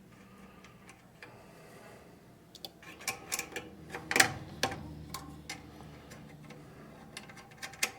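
Irregular small clicks and taps of wire connectors and metal parts being handled while wires are fitted onto an electric furnace's heating strip terminals, starting about two and a half seconds in, with the sharpest click about four seconds in.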